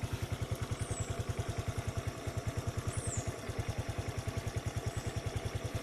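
Habal-habal motorcycle engine running at low revs, an even putt-putt of about a dozen low pulses a second, holding steady.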